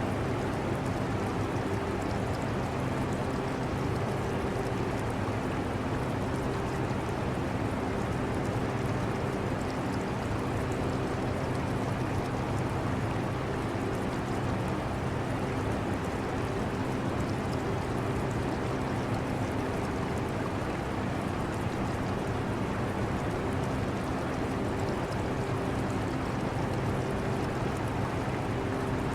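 An air conditioner running steadily with a low hum, mixed with the trickle and bubble of an aquarium's water.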